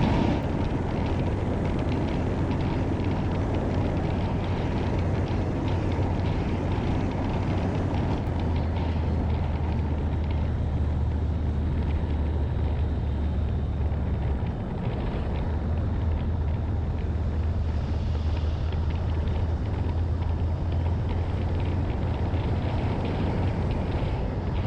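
Steady low engine rumble with constant noise over it, unchanging throughout.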